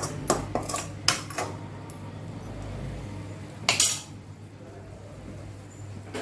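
Metal cookware clinking against a kadai: several light clinks in the first second and a half, then a louder metal clatter nearly four seconds in as the lid goes onto the pan to simmer the chicken.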